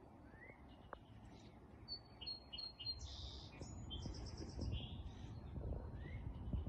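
Wild songbirds chirping in the background: short calls, a couple of rising whistles, and a buzzy trilled phrase about three seconds in. A faint low rumble sits underneath.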